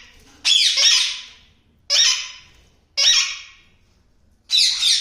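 Yellow ringneck parakeet giving four loud, harsh squawks, about one a second, the first one longest.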